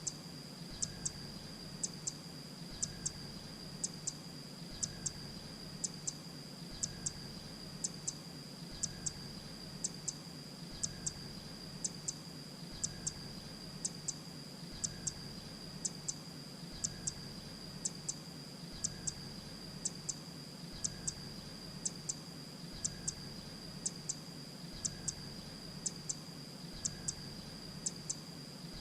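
Grey-breasted prinia calling: short, sharp, high chips, mostly in pairs, repeated about once a second in an even rhythm. A steady high whine and a low hum run underneath.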